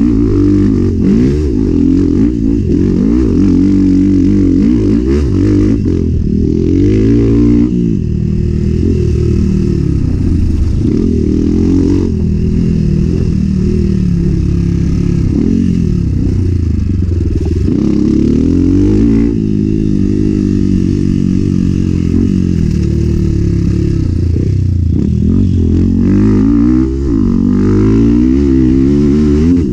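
Enduro motorcycle engine under hard riding, its revs climbing and dropping again every second or two.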